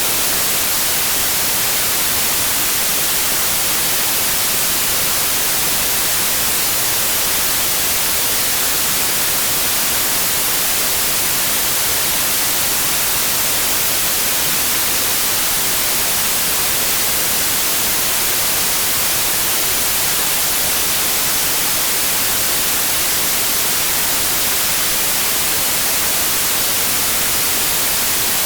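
Steady white noise: an even, unchanging hiss, brightest in the highest pitches, with no hum or motor tones in it.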